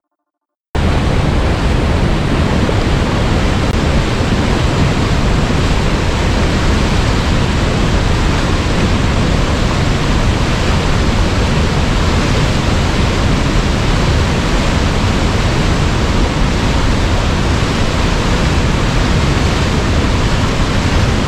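Waterfall: a loud, steady rush of falling water that starts abruptly about a second in, after a moment of silence.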